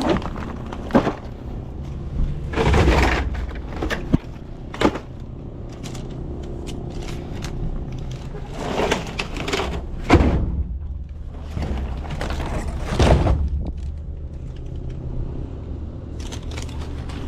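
Cases and bottles of soda being handled and restocked: intermittent knocks, a few sharp clicks and several longer scraping, clattering stretches over a steady low hum.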